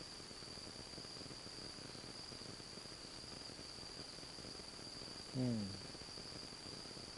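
Insects singing outdoors: one steady, unbroken high-pitched trill. About five and a half seconds in, a person gives a short falling hum.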